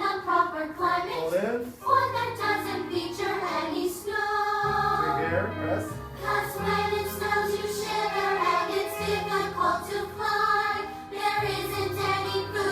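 A group of young voices singing a show tune in chorus over an instrumental accompaniment with held bass notes.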